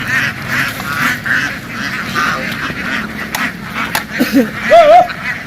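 A large flock of domestic ducks quacking, a dense chatter of many overlapping calls, with one louder, lower wavering call about four seconds in.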